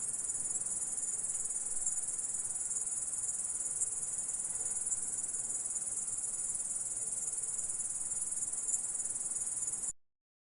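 Grasshopper stridulating: a continuous, high-pitched trill with no breaks, which cuts off suddenly near the end.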